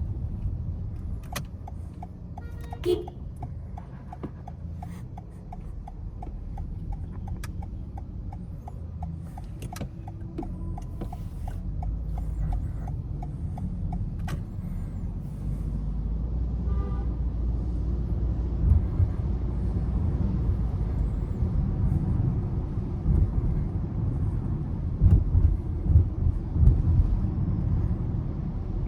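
Car driving in city traffic: a steady low rumble of engine and road noise. A turn-signal indicator ticks about twice a second through the first half and stops about halfway, after which the rumble grows louder.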